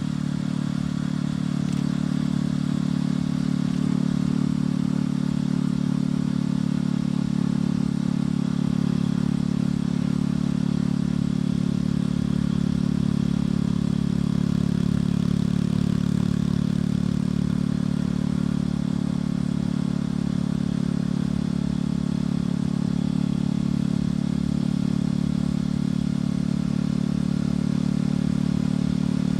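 Motorcycle engine and exhaust heard from the bike while riding, the engine note holding steady at a constant pace.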